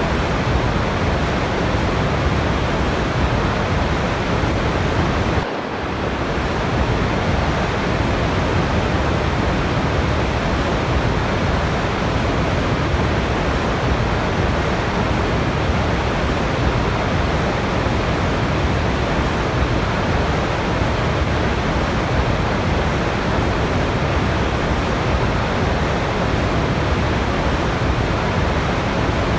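Waterfall: a steady, even rush of falling water, with a brief dip in level about five and a half seconds in.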